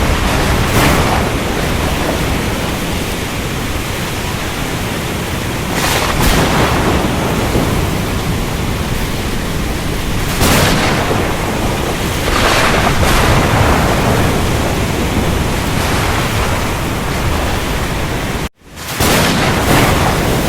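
Ocean storm ambience: a steady roar of surf, wind and rain, with several louder crashes swelling up and fading. About 18 seconds in the sound cuts out for a split second, then comes back.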